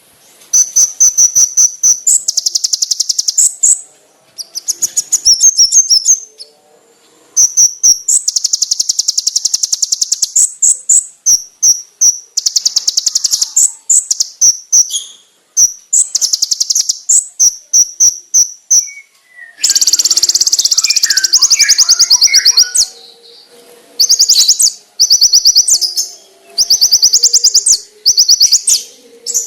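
Kolibri ninja (konin) sunbird song: sharp, loud, high-pitched rapid-fire trills and chattering runs in bursts of one to three seconds, with short pauses between them.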